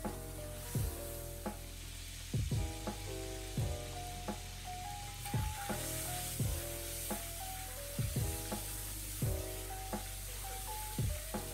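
Food sizzling in hot oil in a wok while a wooden spatula stirs it. Background music plays over it, a melody of stepping notes with a low thumping beat.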